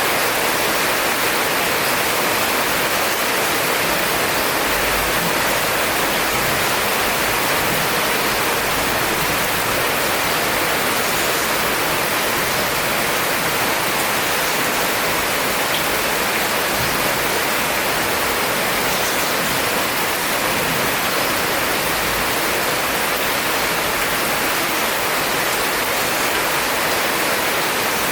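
Heavy rain falling in a steady, dense hiss, with faint low rumbles now and then underneath.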